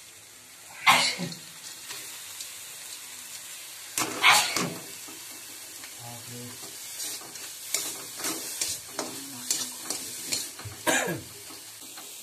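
Small round taituguni sizzling in oil in a black kadai, stirred with a flat spatula that scrapes across the pan. The loudest scrapes come about one second and four seconds in, with a run of lighter strokes later and another loud one near the end.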